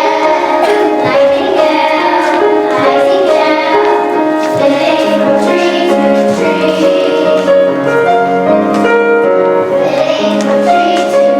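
A child's voice singing a melody with instrumental accompaniment, with long held notes.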